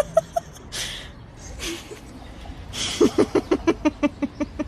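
An animal giving quick runs of short calls, about six a second, with breathy snorts between the runs.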